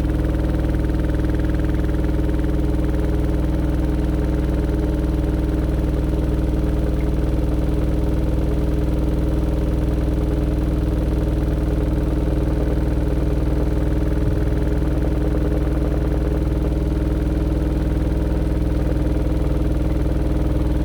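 AQUA AQW-DX12M drum washing machine spinning at a steady high speed in its final spin, set to 1200 rpm: an even motor and drum hum made of several held tones, picked up through the machine's top panel.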